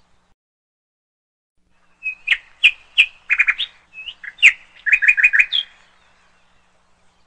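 A songbird singing one fast phrase of sharp chirps and short trills, starting about two seconds in and lasting nearly four seconds, ending in a quick upward note.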